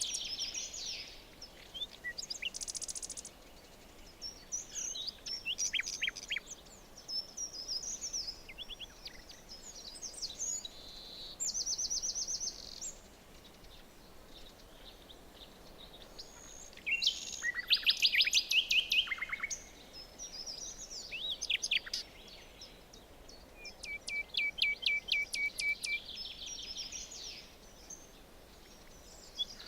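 Several forest birds calling and singing: short chirps, rapid trills and whistled phrases, one after another with brief gaps, over a faint steady background hiss.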